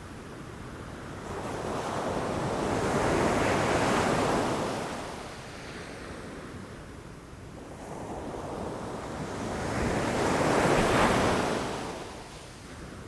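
Ocean waves surging against rocks: two waves build and break, the first about three seconds in and the second near the end, with the wash ebbing between them.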